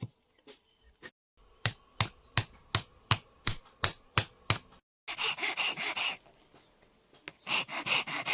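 A blacksmith's hammer strikes a machete blade on the anvil about three times a second, nine ringing blows in all. After a cut, two long stretches of rasping metal-on-metal scraping follow as the blade is worked.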